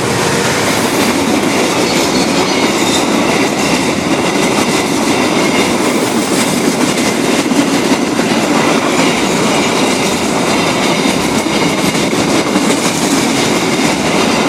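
Freight train of fuel tank wagons passing at speed, wheels clattering over the rail joints in a steady loud rolling rumble.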